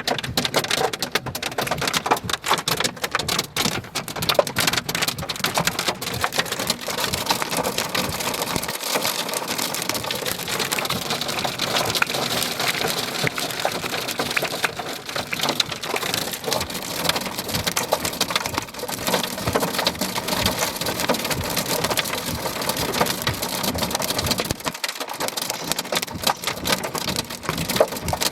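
Heavy rain pelting down on a hard surface, a dense steady patter full of sharp individual hits, thickest in the first few seconds.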